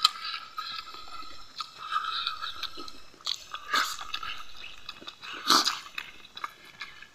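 A man chewing a mouthful of rice and fish curry close to the microphone, with wet lip smacks; two sharper smacks stand out, about halfway through and again a second and a half later.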